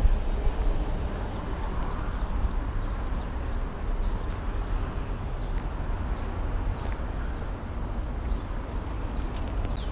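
Small birds chirping, many short high falling notes repeated every few tenths of a second, over a steady low outdoor rumble.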